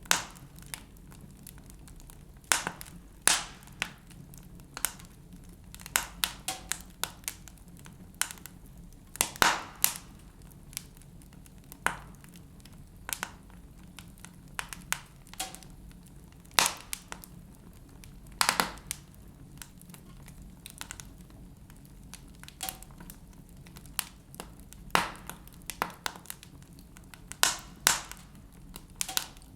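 Wood fire burning in a fireplace, crackling with irregular sharp pops and snaps, some much louder than others.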